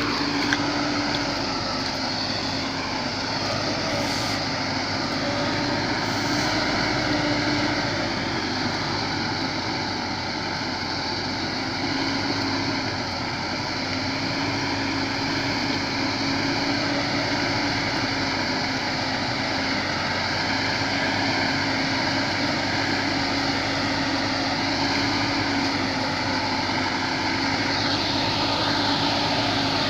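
A vehicle driving: steady engine drone and road noise, with a hum that wavers slightly in pitch.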